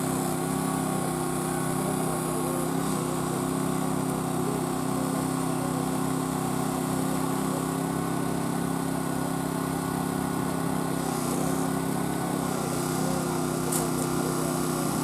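Small engine running steadily at an even speed, with a faint tick near the end.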